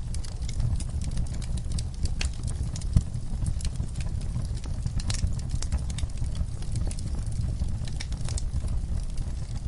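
Wood fire in a fireplace crackling, with irregular sharp pops and snaps over a steady low rumble of the flames, one louder pop about three seconds in.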